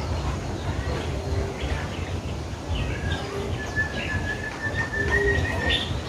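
Captive birds calling: short low cooing notes about every two seconds, scattered high chirps, and one long steady whistle through the second half.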